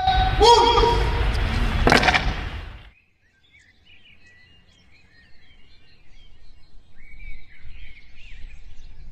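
A loud, drawn-out pitched call, then a sharp crack about two seconds in, cut off abruptly a second later. After that, birds chirp quietly and sporadically.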